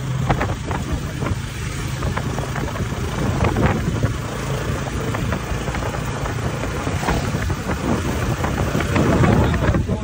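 Motorcycle engine of a sidecar tricycle running steadily while riding down the road, with wind rushing and buffeting over the microphone.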